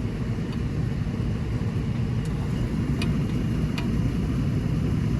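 Steady low background rumble, with a few faint light clicks about two, three and nearly four seconds in.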